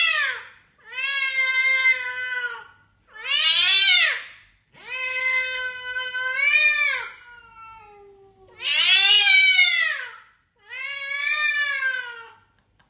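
Domestic cat meowing loudly and repeatedly: about six long, drawn-out meows with short pauses between them.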